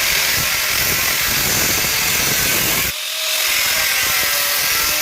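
Power drill running steadily while the table saw's under shield is being taken off, with a brief let-up about three seconds in.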